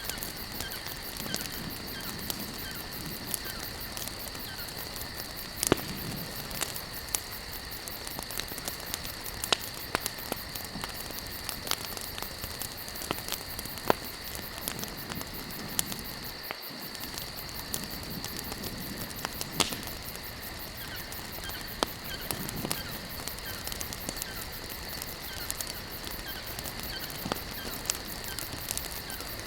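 Campfire of burning logs crackling continuously, with a sharp louder pop every few seconds over a steady hiss.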